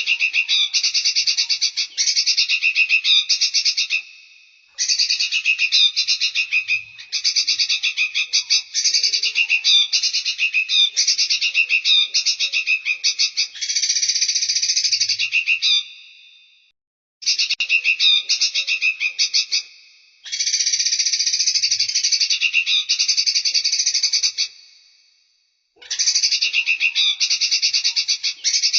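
A songbird singing long, rapid, high-pitched trilled phrases of a few seconds each, with short pauses between them.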